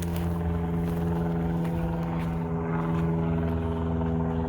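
A steady mechanical hum from a running motor, holding one constant pitch throughout.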